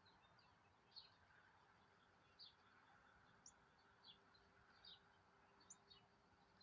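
Faint, short, high-pitched bird chirps, about seven of them at irregular intervals of roughly half a second to a second and a half, over a quiet background hiss.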